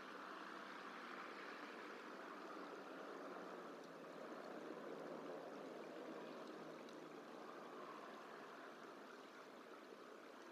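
Faint, steady rushing of flowing water, with no bird calls standing out.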